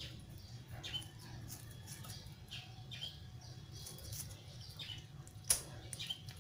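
Faint wet squelching and small clicks of raw pork intestines being handled and cut with kitchen scissors in a stainless steel sink, with one sharper click about five and a half seconds in.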